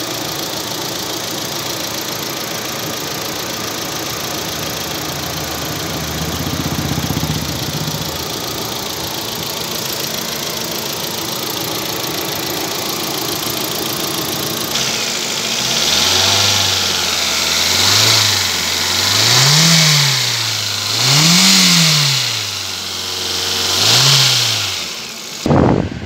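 Hyundai Verna engine idling steadily, then revved in about five short blips in the second half, each rising and falling in pitch, roughly every two seconds.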